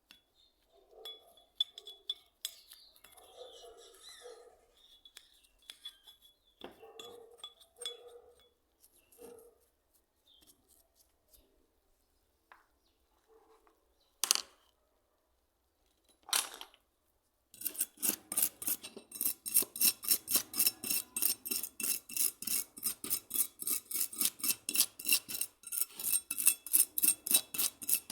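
Light clinks and taps of small parts being handled. Then, from about two-thirds in, a fast, even run of back-and-forth scraping strokes, about four a second, as of hand filing or sanding.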